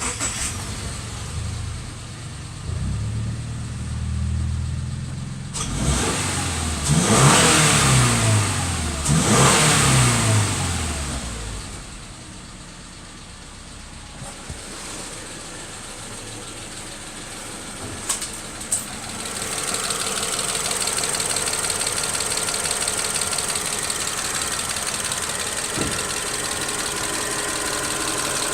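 Subaru Forester's flat-four boxer engine running, revved up and back down twice, then settling to a steady idle. A steady higher whir joins the idle about two-thirds of the way through.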